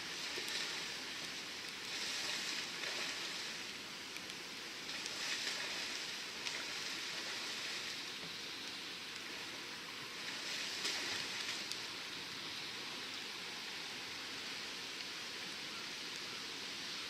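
Water splashing and sloshing around a kayak as it is paddled and manoeuvred, a steady hiss that surges several times, with small drips and clicks.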